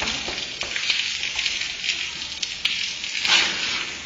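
Rain falling: a steady crackling hiss of drops, swelling louder a little past three seconds in.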